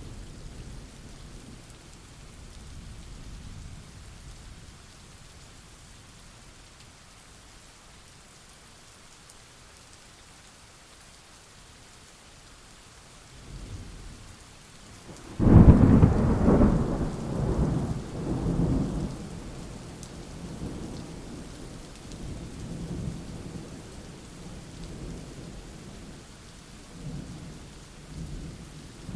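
Steady rain during a thunderstorm, with thunder rumbling low at first, then a sudden loud clap about halfway through that rolls on in uneven rumbles for several seconds.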